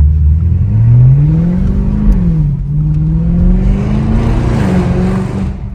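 Straight-piped Audi S7 exhaust under hard acceleration, loud. The engine note climbs, drops sharply about two seconds in at a gear change, climbs again, then falls away near the end as the throttle is lifted.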